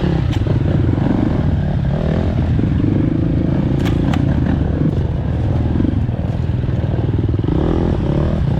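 Four-stroke dirt bike engine running on a rough trail, revs rising and falling as the throttle is worked, with a few sharp clacks of stones or the bike knocking against rocks.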